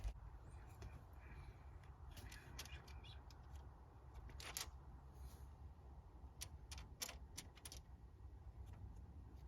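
Faint, scattered clicks and light clinks of thin steel chain being handled while its links are marked out, over a low room hum.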